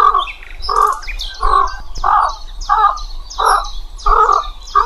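A bird calling over and over, a harsh call about three times every two seconds, with fainter high chirps over it.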